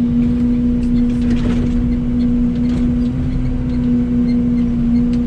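Excavator engine running steadily with a constant hum, with a few faint knocks from the machine working.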